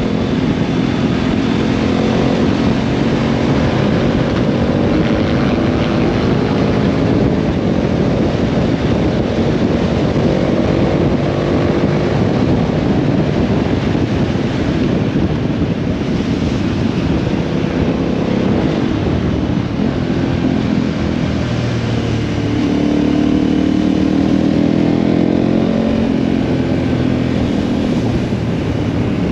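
Motorcycle engine running at road speed under a steady rush of wind and road noise, its pitch climbing about two-thirds of the way through as the bike speeds up.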